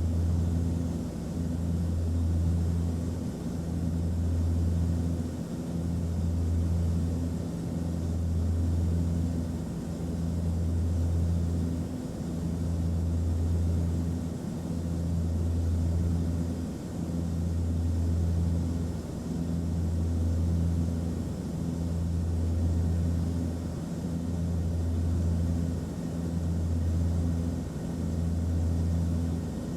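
Aircraft cabin noise: a steady rumbling roar of air and engines with a low hum that swells and dips about every two seconds.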